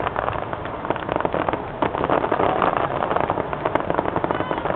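Fireworks crackling: a dense, unbroken run of rapid sharp pops from many small crackling stars bursting at once.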